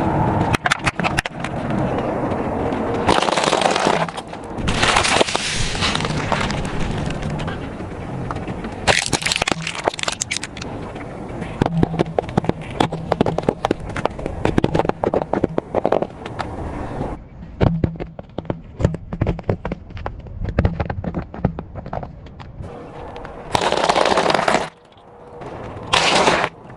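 Car tyre rolling over and crushing brittle objects: a long run of sharp cracks and crunches, with several bursts of a crumbling rush.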